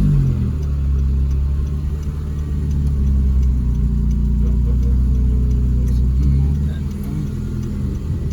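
2012 Honda Civic Si's 2.4-litre four-cylinder engine running steadily as the car is driven slowly, its note dropping off about six and a half seconds in.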